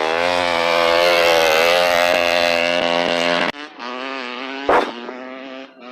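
Motorcycle engine running close by at a steady speed, its pitch wavering slightly. About three and a half seconds in the sound cuts off abruptly to a quieter engine, with one sharp knock near the end.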